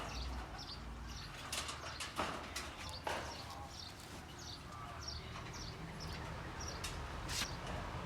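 A bird chirping over and over at about two short chirps a second, with a few sharp clicks or taps, mostly between about one and a half and three seconds in and again near the end.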